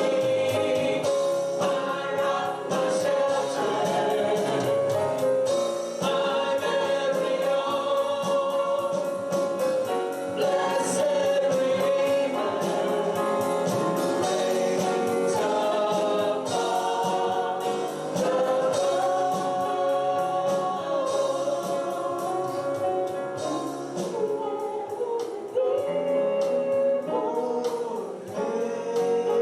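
Gospel worship song with a choir singing over a band, with a steady beat.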